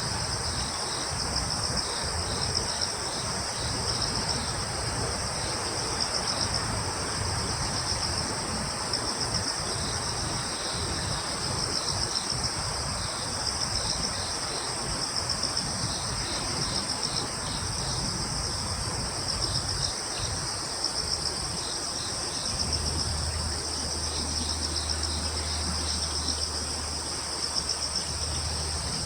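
Crickets and other insects trilling steadily in woodland: a continuous high, pulsing chirring with faster rhythmic chirps just below it, over a soft hiss of breeze. A low steady hum joins for several seconds in the second half.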